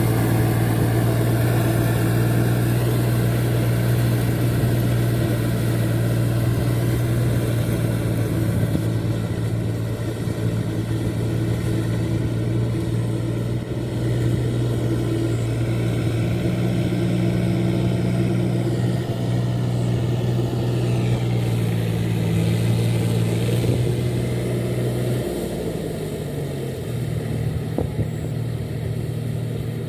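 Four-wheel rice-paddy tractor engine running steadily. Its note dips and changes pitch near the end.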